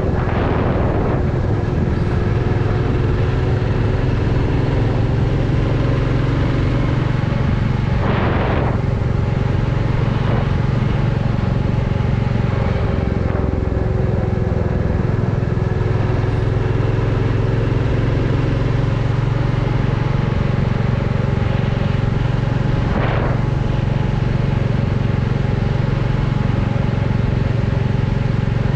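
Royal Enfield Classic 350's single-cylinder engine and exhaust running steadily under way at an even speed, with a few brief swells of road noise.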